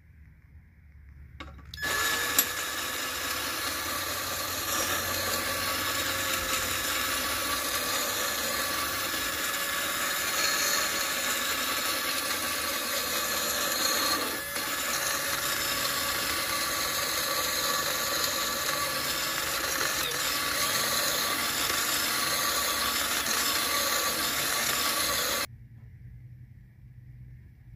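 Cordless drill spinning a grinding-stone sharpener against the steel cutting edge of a lawn mower blade: a steady grinding over the drill motor's hum. It starts about two seconds in, dips briefly about halfway, and stops abruptly near the end.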